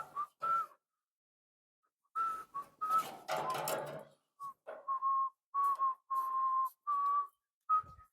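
A person whistling a tune: short, broken notes around one pitch, with a breathy edge and brief pauses between phrases. A low thump sounds near the end.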